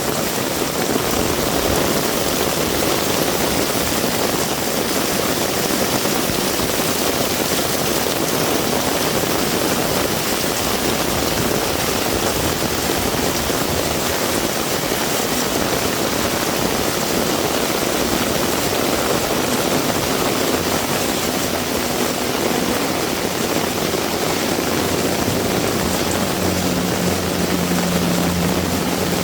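Heavy rain falling steadily as a dense, even hiss. About 25 seconds in, the low, steady hum of a vehicle engine comes in and grows louder.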